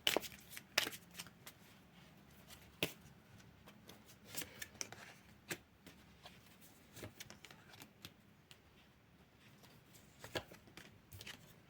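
Tarot cards being handled: shuffled and drawn, giving faint, irregular short snaps and taps of card stock.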